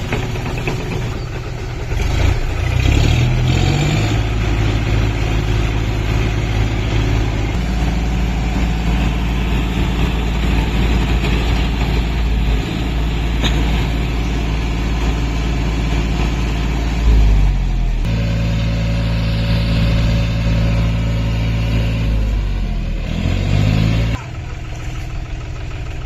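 John Deere 5050D tractor's three-cylinder diesel engine running, with the revs rising about two seconds in, again about two-thirds of the way through, and once more near the end before it drops back to a lower, quieter speed.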